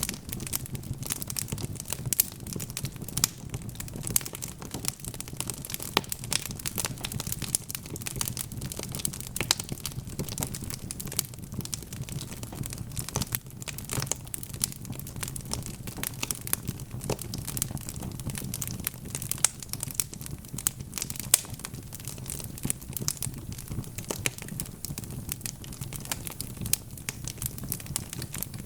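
Wood fire crackling: dense, irregular pops and snaps over a steady low rumble of burning.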